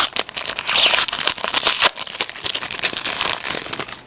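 Hockey card pack wrapper crinkling and crackling loudly as it is handled and pulled apart, stopping abruptly near the end.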